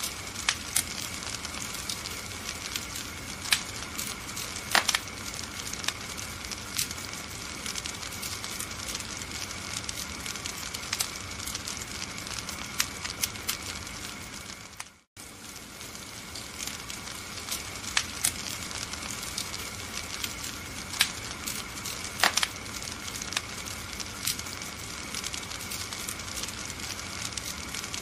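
Wood fire crackling and hissing steadily, with sharp pops scattered every second or so. About halfway through, the sound cuts out for a moment and then resumes.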